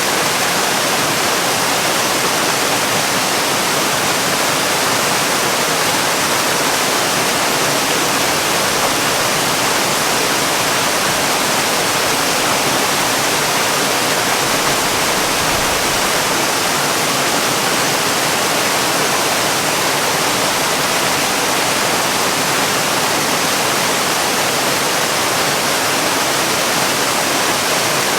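Waterfall: a steady, even rush of falling water, strongest in the higher range, with no breaks or changes.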